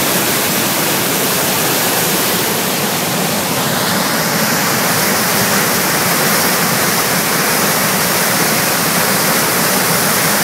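Big Falls on the Missisquoi River in spring-thaw flood: a loud, steady rush of water churning through the falls.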